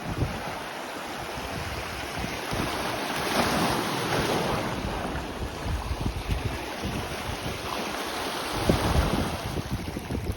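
Sea waves washing onto a beach, with wind rumbling on the microphone. The surf swells twice, about three seconds in and again near the end.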